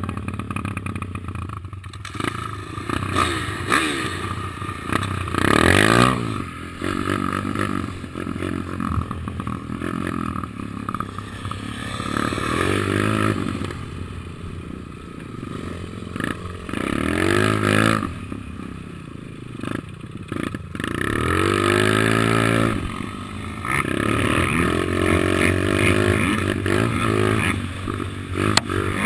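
Kawasaki KLX110 pit bike's small single-cylinder four-stroke engine being ridden, revving up and easing off again and again, the pitch climbing in several sweeps (near 6, 17, 22 and 24 seconds in).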